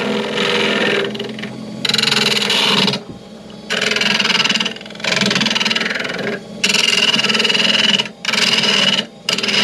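A curved turning tool cutting into wood spinning on a wood lathe, in a series of cuts about a second long with short breaks between them, over the steady hum of the lathe.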